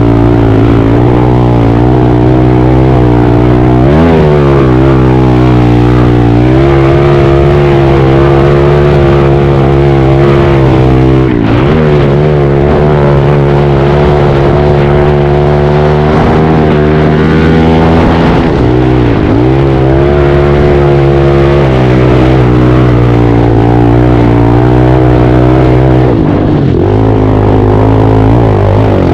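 Pit bike's single-cylinder engine running hard at high revs, the throttle closing briefly about every seven seconds and the revs climbing back up each time.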